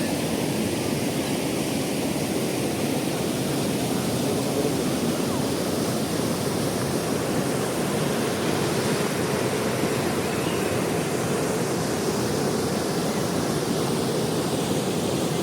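Steady rush of fast-flowing river water, loud and even throughout.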